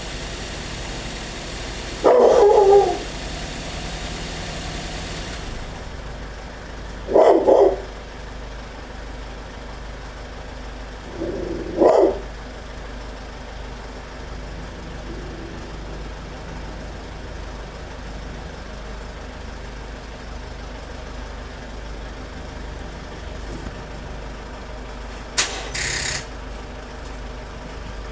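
A dog barking three times, several seconds apart, over a steady low background hum. Near the end there is a brief sharp noise.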